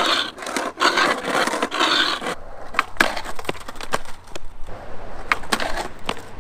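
Skateboard trucks grinding along a concrete edge: a loud, rough scrape for about two and a half seconds. The new Avenue trucks have almost no kingpin clearance, and grinding works them in. Then the board rolls on with several sharp clacks.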